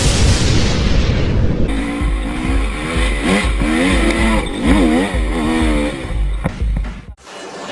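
Off-road motorcycle engine, first a loud noisy roar, then revved up and down several times, with the pitch rising and falling. The sound cuts off abruptly near the end.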